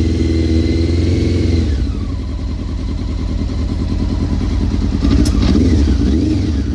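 Motorcycle engine idling while warming up from cold. About two seconds in, a high whine falls away and the engine note settles to a lower, steadier idle.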